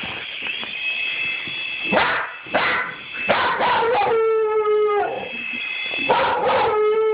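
A dog barking at a toy helicopter: a run of short barks, then a held howl about four seconds in, two more barks, and a second howl starting near the end.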